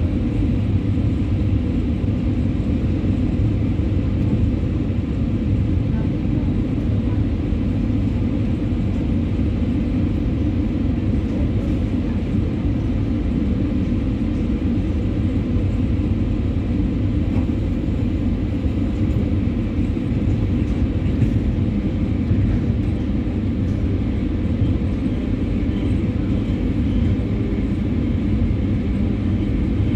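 Passenger train running along the track, heard from inside the carriage: a steady low rumble that does not let up.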